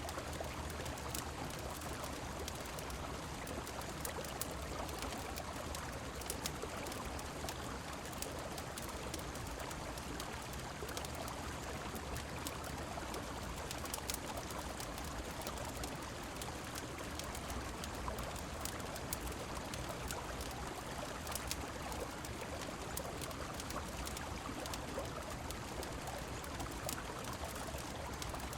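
Steady rush of a river mixed with falling rain, an even wash of water noise, with scattered faint clicks and crackles throughout.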